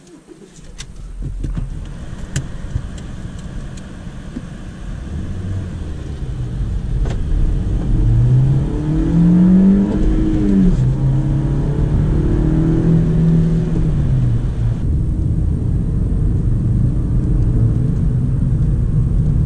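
Honda Civic G8's 1.8-litre four-cylinder engine heard from inside the cabin, pulling the car along with road rumble underneath. About eight seconds in the engine note climbs under acceleration, drops sharply at a gear change, holds steady for a few seconds, then falls away as the throttle is eased.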